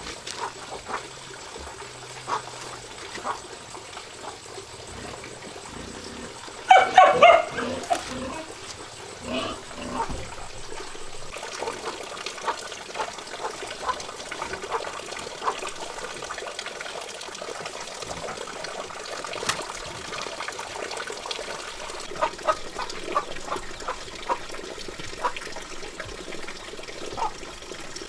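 A dog whimpers and yelps in a short loud burst about seven seconds in, with a few softer whines around it. From about eleven seconds on, water trickles steadily, with small scattered clicks.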